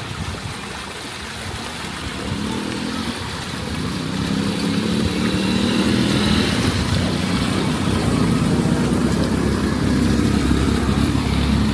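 A motor vehicle's engine approaching and growing louder from about four seconds in, over a steady wash of water noise.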